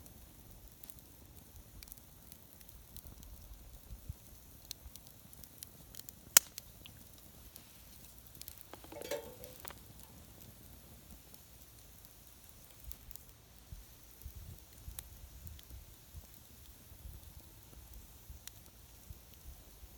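Campfire burning in an iron fire pit: scattered quiet crackles and pops, with one sharp pop about six seconds in and a short hissing burst about nine seconds in.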